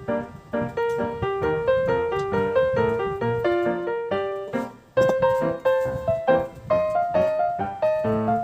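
Background piano music: a quick run of notes, breaking off briefly about five seconds in before going on.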